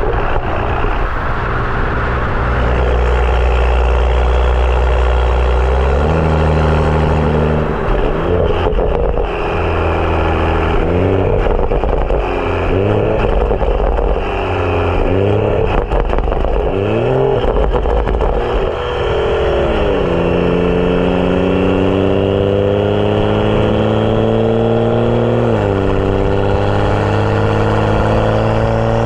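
BMW 335i's N55 turbocharged straight-six running through a catless downpipe and M Performance exhaust while driving. It drones steadily at low revs, steps up after about six seconds, rises and falls in engine speed several times, then pulls in a long rising note, drops sharply once at a gear change and climbs again near the end.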